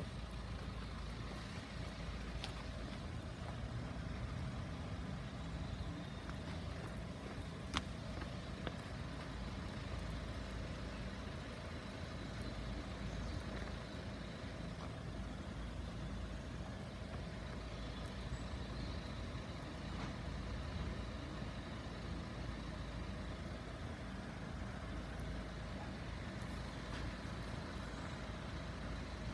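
Steady low rumble of vehicle engines, with a faint steady tone above it and one sharp click about eight seconds in.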